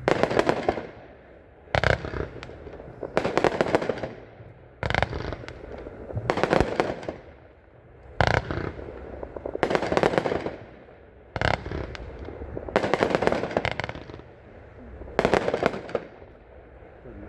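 Consumer firework cake firing shot after shot, about every one and a half seconds. Each shot is a loud bang, and the break follows as a burst of rapid pops lasting about a second.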